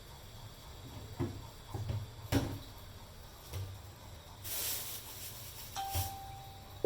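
Kitchen handling sounds: a few sharp knocks and clatters, a brief hiss about four and a half seconds in, and a short steady beep-like tone near the end.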